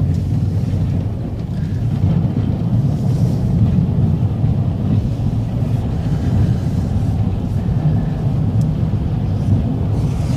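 Plow truck running, a steady low rumble with no change in pace.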